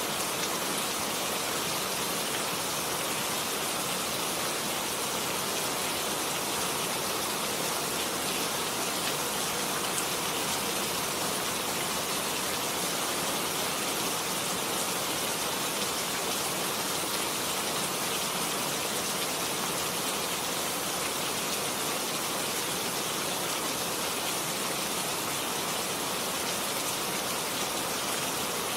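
Steady rain falling on garden leaves, with the running water of a small forest stream beneath it: an even, unbroken hiss with no thunder.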